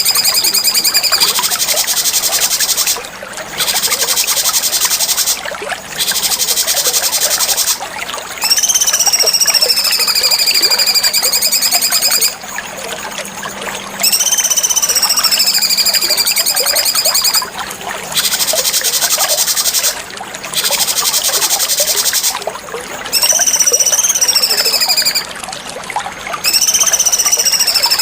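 Cucak cungkok songbird song: high, fast chattering trills with whistled notes gliding up and down, in phrases of about two seconds broken by short pauses.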